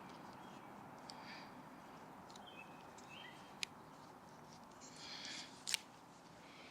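Quiet outdoor background with a few faint bird chirps, a short scrape and two sharp clicks of a Swiss Army knife blade being worked in a stick of wood.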